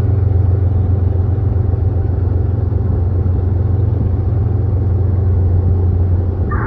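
Diesel locomotive of an arriving train rumbling, a loud steady low drone.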